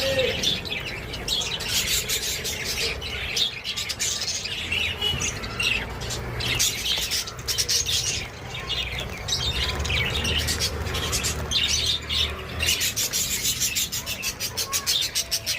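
Budgerigars chirping and squawking, a dense run of short, sharp calls that crowd together near the end.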